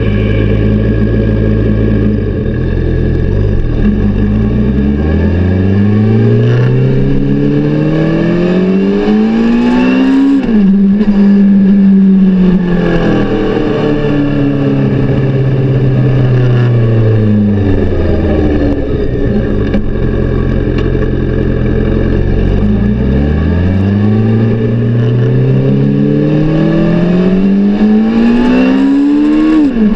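Suzuki GSX-R600 K7 inline-four engine being revved through its exhaust. The revs climb slowly to a sudden drop about ten seconds in, sink back down, then climb slowly again to another sudden drop near the end.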